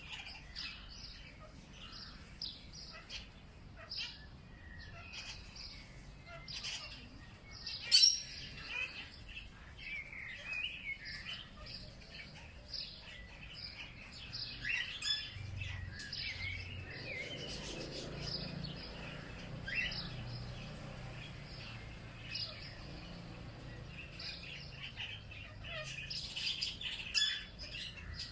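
Many small birds chirping and twittering, short overlapping calls all the way through. A sharp click about eight seconds in, and a faint low rumble underneath from about the middle.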